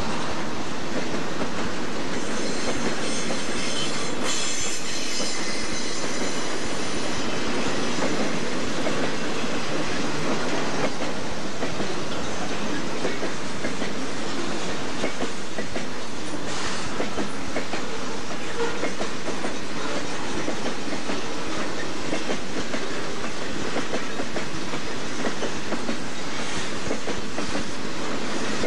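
Southern Pacific freight cars rolling past at close range: a steady rumble and rattle of steel wheels on the rails, with rapid clicking throughout. A faint high squeal of wheels comes and goes a few seconds in.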